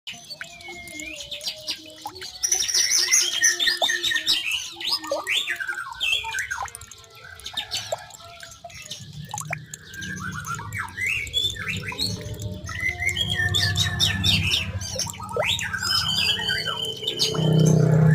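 Songbirds chirping and singing: a dense, varied run of whistles, trills and quick rising and falling notes. A low steady hum comes in about halfway through and grows near the end.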